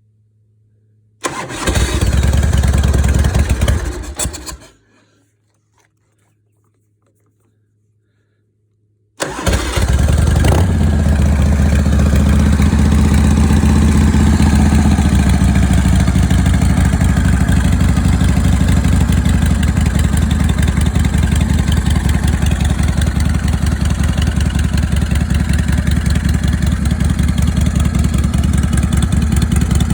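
90 cubic inch Panhead-style V-twin motorcycle engine cold-starting. About a second in it fires briefly and dies after about three seconds. A few seconds later it catches and keeps running, at a fast idle that settles after about six seconds into a loping idle.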